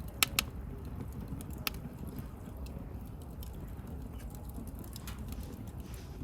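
Wood burning in a campfire, with a low steady rumble and sharp crackles and pops: two loud snaps close together right at the start, another about a second and a half later, and fainter ticks in between.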